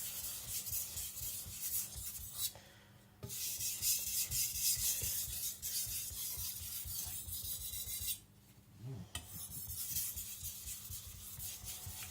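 Tojiro white-steel (shirogami) nakiri blade being stroked back and forth on a Naniwa Professional 3000-grit water stone: a continuous wet, rasping scrape of steel on stone, paused briefly twice.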